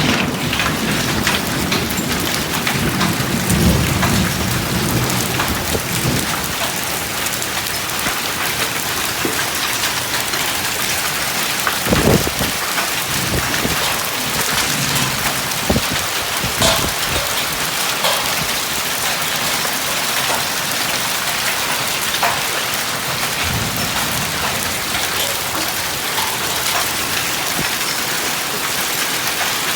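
Heavy thunderstorm rain pouring down in a steady hiss, with scattered sharp knocks of strikes on surfaces; the loudest come about twelve and sixteen seconds in. A low rumble of thunder dies away in the first few seconds.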